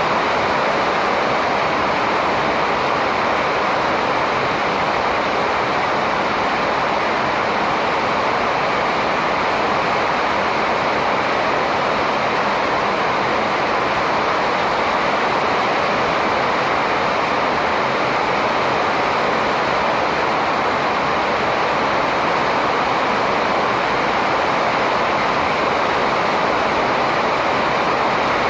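A steady, even rushing noise with no birdsong standing out.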